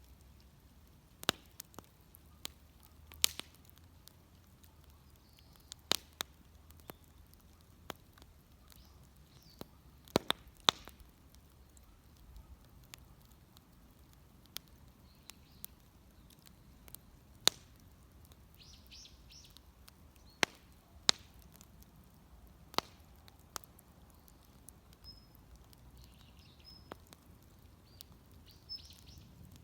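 Wood fire crackling: sharp, irregular pops and snaps a second or two apart, with small birds chirping faintly now and then.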